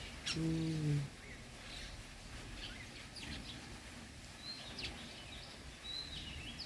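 Small birds chirping, with short, high calls scattered throughout and a couple of brief whistled notes in the second half. About half a second in comes a short, low, hummed voice, the loudest sound.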